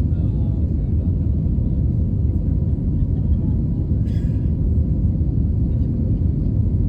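Steady low rumble of a vehicle in motion, with a faint, brief higher-pitched rustle about four seconds in.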